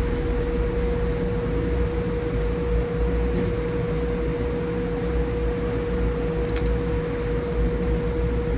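Steady mechanical hum with a low rumble and a constant mid-pitched tone, with a few faint light clicks near the end.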